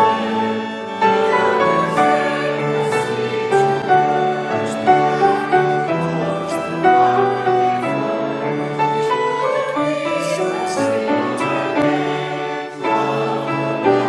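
Choral music: several voices singing held notes together.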